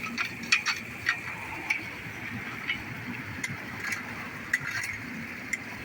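Floodwater running steadily into a street storm drain, with about ten irregular sharp clicks and knocks scattered through it as debris is cleared from the drain.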